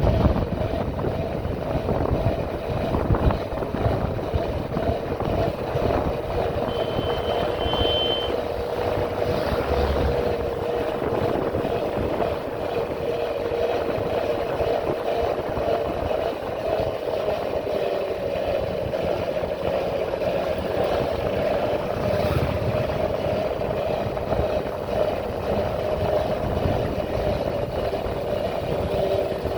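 Motorcycle engine running steadily on the move, with a low rumble of wind noise underneath.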